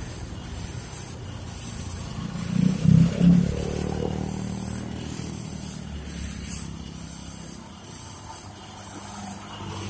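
A loaded truck's engine running at low revs as it comes down a steep road; it swells loudest about three seconds in, then fades.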